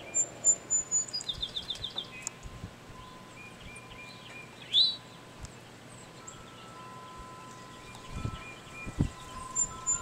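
Songbirds singing. One bird sings a song of a few high, thin notes followed by a quick trill, twice. Another gives a loud rising call about five seconds in, and a couple of low thumps come near the end.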